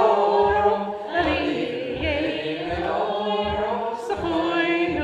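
A group singing a Scottish Gaelic milling (waulking) song in chorus, with the wool cloth thumped on the table in time, about twice a second.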